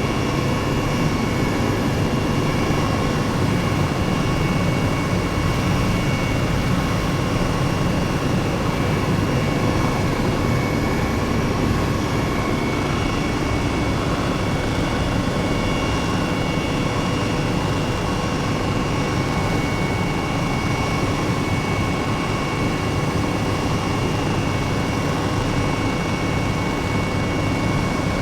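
Helicopter in steady flight: continuous engine and rotor noise, a dense low rumble with a steady high whine running over it.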